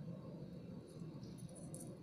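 A few faint, sharp clicks of small hard beads and pliers being handled, about one and a half seconds in, over a steady low hum.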